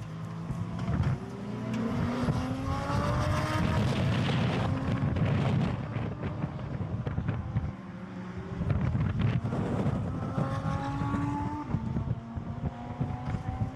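Sports car engine accelerating hard on a track, its pitch climbing steadily and then dropping at a gear change about six seconds in. It climbs again and shifts once more near the end.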